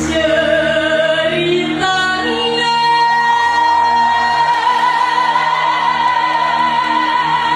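A woman singing over instrumental accompaniment, moving through a few notes and then holding one long high note with vibrato from about two and a half seconds in.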